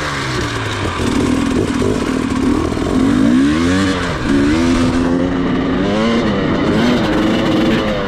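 Off-road dirt bike engine running close by just after starting, its pitch rising and falling as the throttle is opened and closed, with sharper revs about three to four and six seconds in.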